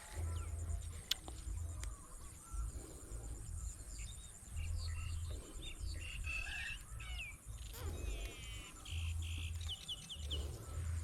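Small birds chirping, with a quick trill about eight seconds in and a run of short repeated notes near the end. Wind buffets the microphone in uneven gusts throughout, and there is one sharp click about a second in.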